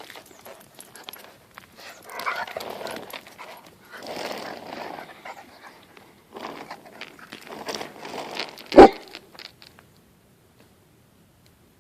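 Catahoula leopard dog panting and vocalizing in three or four short bursts while play-fighting, with a sharp thump about nine seconds in; the sound then falls away to near silence.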